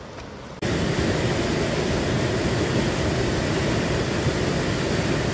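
Steady loud rush of a large waterfall's falling water, starting abruptly about half a second in.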